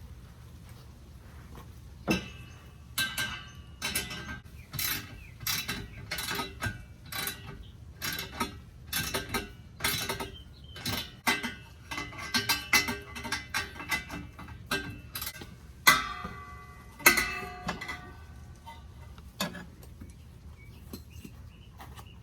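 Wrench clinking and clicking against the bolts of a steel exhaust downpipe flange as they are tightened: irregular sharp metallic clicks with short ringing tones, several a second, with a couple of louder knocks near the end.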